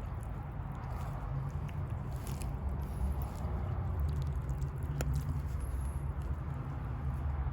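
Someone eating pasta: chewing and small mouth sounds, with a sharp click about five seconds in, over a low steady rumble.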